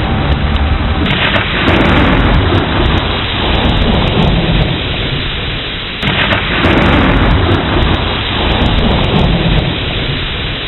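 Thunderstorm: steady heavy rain with thunder. A loud clap breaks out about a second in and another about six seconds in, each rolling off into a low rumble over several seconds.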